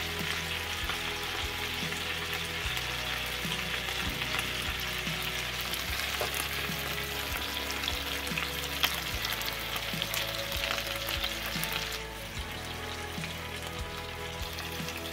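Chicken drumsticks frying in butter and olive oil in a nonstick pan: a steady sizzle, with sharp clicks of metal tongs against the pan and meat as pieces are turned and lifted out. The sizzle drops off about twelve seconds in.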